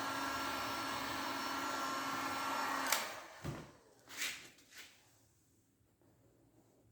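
A blower-type electric motor runs steadily with a faint whine, then is switched off about three seconds in with a click. A few light knocks follow, then near quiet.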